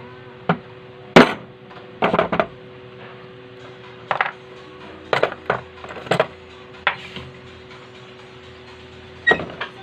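Irregular sharp metal clinks and knocks of hand tools and parts being handled on a Singer edger sewing machine during bearing and flywheel work, about a dozen strikes with the loudest about a second in. A steady low hum runs underneath.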